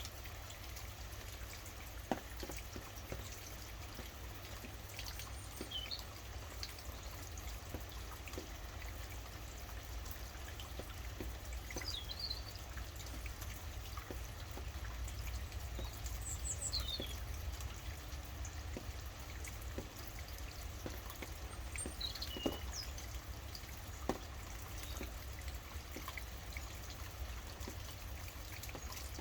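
Steady rain with scattered louder drips, and now and then a few short, high chirps from birds.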